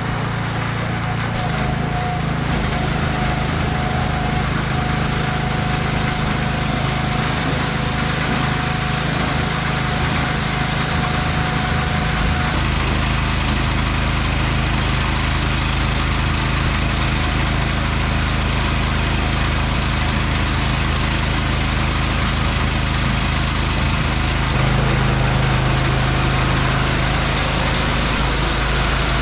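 Pressure washer running steadily while spraying water, rinsing snow foam off a car. Its steady running note shifts near the end.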